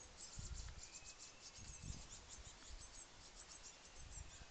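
Blue tit fledglings calling: a faint, dense stream of rapid, thin, very high-pitched chirps, with a few low rumbles underneath.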